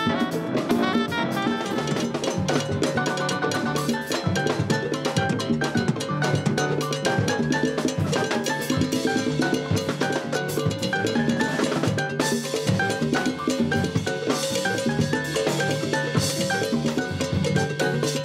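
Latin jazz band playing, led by drums and percussion over a repeating bass line and repeated higher melodic notes.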